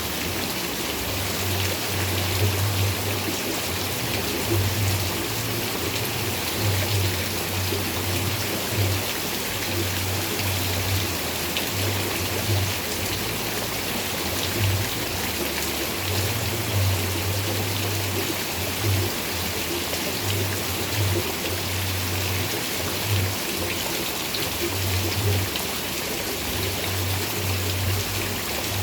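Steady rain falling, an even hiss of drops with occasional louder patters. Under it a low hum cuts in and out again and again.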